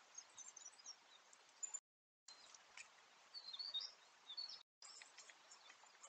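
Faint high bird chirps over a steady hiss from a trail camera's microphone, with a few short clicks. The sound drops to dead silence twice, briefly, where separate recordings are joined.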